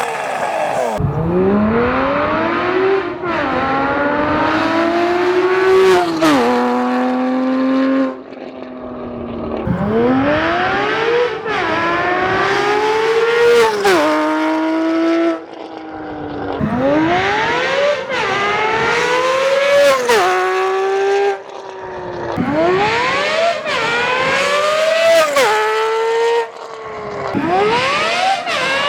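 Porsche Cayman GT4's 3.8-litre naturally aspirated flat-six accelerating hard. Its pitch climbs through each gear and drops at every upshift. The same run repeats about five times, each pass shorter because the recording is played back faster.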